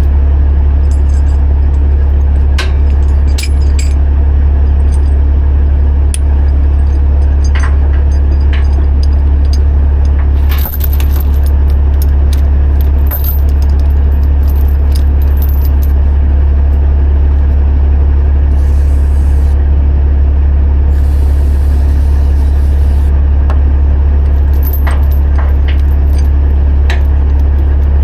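Heavy truck engine droning steadily, with light metallic clinks and jingles scattered throughout.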